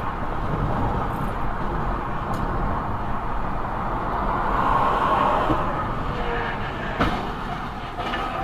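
Steady rumble of a vehicle driving, engine and road noise, with a single sharp click about seven seconds in.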